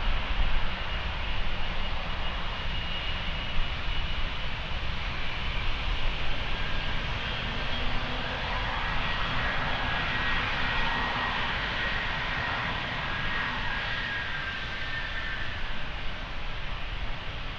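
Jet engines of a departing Boeing 787-9 airliner: a steady roar with a high whine, swelling about halfway through.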